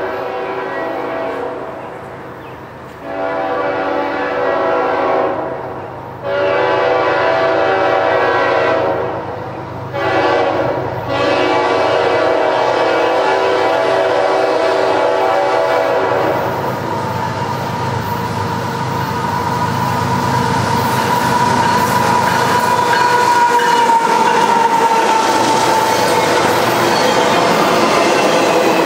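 A diesel freight locomotive's horn sounds a chord in long blasts with brief breaks, in the long, long, short, long pattern used for a grade crossing. After that, the rumble of a double-stack container train grows louder as it approaches and passes, with a high steady squeal over it.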